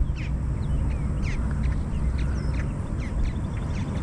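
Birds calling outdoors: many short, quick downward chirps from several birds, over a steady low rumble.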